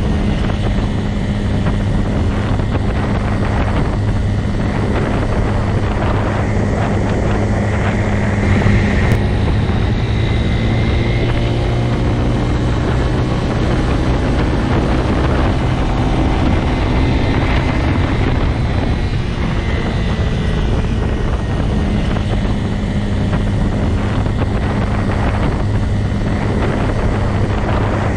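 Motorcycle engine running at a steady, even speed: a continuous drone that holds nearly the same pitch throughout.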